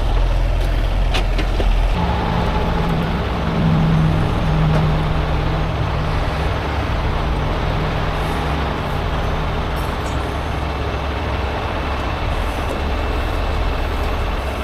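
Heavy diesel truck engine running steadily over a constant wash of road and rain noise; about two seconds in the engine note rises and holds at a higher speed.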